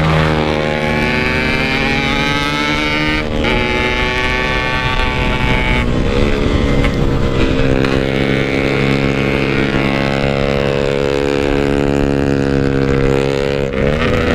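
Yamaha RX-King 135cc single-cylinder two-stroke engine accelerating hard, its pitch climbing in each gear and dipping at gear changes a few times. It holds high revs through the later part, with the expansion-chamber exhaust on the pipe.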